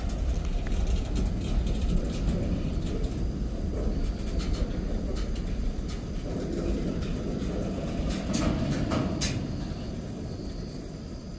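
Loaded freight train's covered hopper cars rolling slowly past, steel wheels rumbling on the rails. Sharp metallic clanks come about four and a half seconds in and again around eight to nine seconds. The rumble fades near the end as the cars slow.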